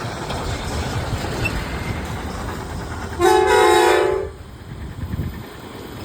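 Truck horn giving one loud multi-tone blast of about a second, with a small jump in pitch partway, over the steady running noise of the truck.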